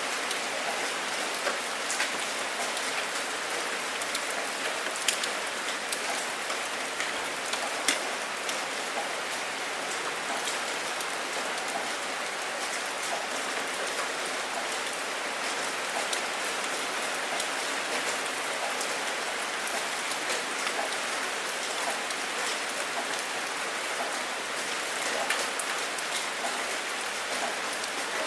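Steady rain falling, an even hiss with sharp individual drop hits scattered through it, two louder hits about five and eight seconds in.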